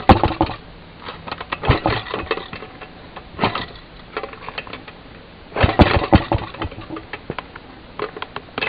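Maytag Model 92 single-cylinder two-stroke engine being kick-started: it fires in short sputtering bursts of a few pops that die out, four or five times, and catches into steady running right at the end. Its carburetor has just been readjusted.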